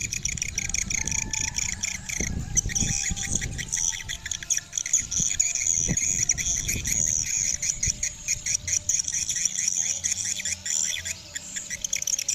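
Swiftlets twittering: a dense, continuous run of rapid high chirps, with a low rumble underneath during the first half.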